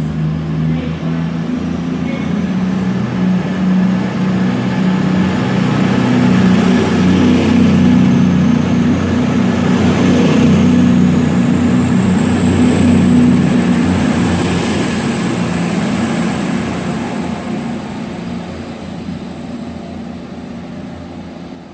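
A diesel train going by, its engine drone and wheel noise building to a peak about halfway through and then fading away. A thin high whine rises over it in the middle.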